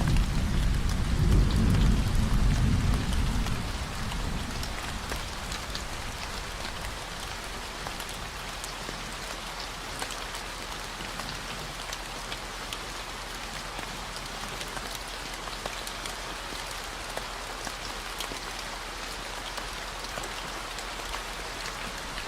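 Steady rain falling. A low rumble of thunder dies away over the first few seconds. Under it runs a constant low 40 Hz tone.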